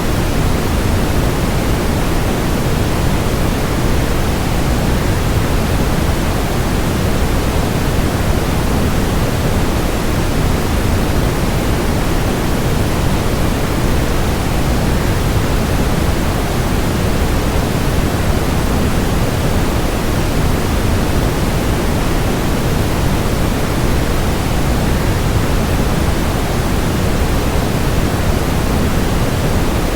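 Waterfall white noise: a steady, unchanging rush of falling water, heaviest in the low end and thinning toward the high end, with no separate events.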